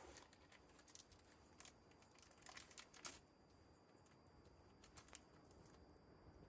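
Near silence with scattered faint clicks and crackles, a small cluster of them about two and a half to three seconds in.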